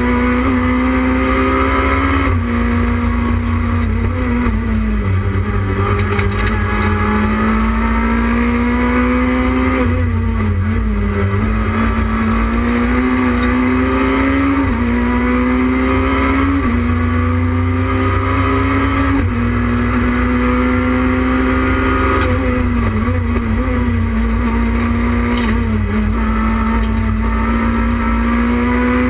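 Renault Clio 3 rally car's engine heard from inside the cabin, running hard at stage pace. Its pitch climbs slowly and falls back about eight times as gears change.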